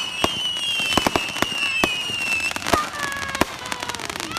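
Consumer fireworks going off: a rapid string of sharp pops and crackles under several shrill whistles that slowly fall in pitch, with lower whistles gliding down near the end.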